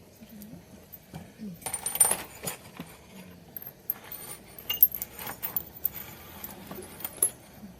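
Wood-fired ceramic pieces clinking and knocking against each other and against hard surfaces as they are handled, with a loud cluster of rattling clinks about two seconds in and scattered sharp clicks after.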